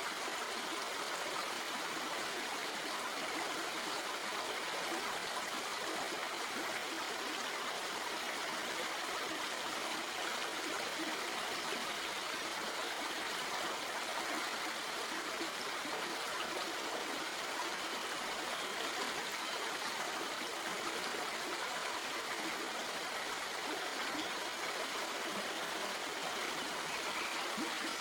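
Shallow stream flowing and burbling over rocks in a steady, even rush of water.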